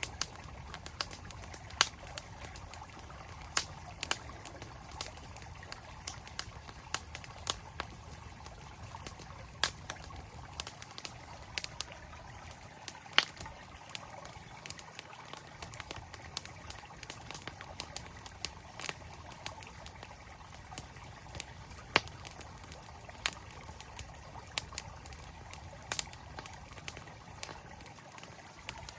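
Campfire crackling with frequent sharp, irregular pops over the steady rush of a flowing mountain stream.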